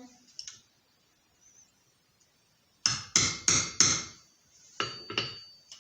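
Hammer blows knocking a seized bearing out of a skateboard wheel: four quick strikes about three seconds in, then two more about a second later.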